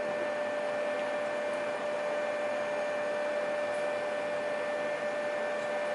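Steady background hiss with a constant electrical hum tone, unchanging throughout; no distinct handling or tool sounds stand out.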